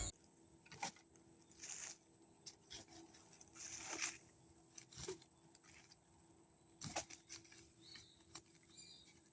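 Near silence with faint, scattered clicks and a few soft rustles.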